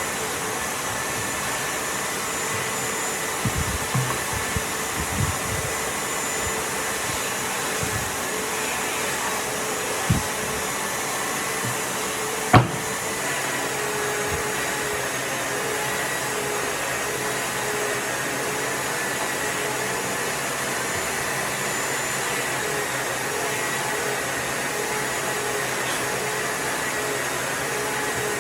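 Steady whirring of an electric power tool or workshop machine running continuously. A few soft thumps come early on, and one sharp knock comes near the middle.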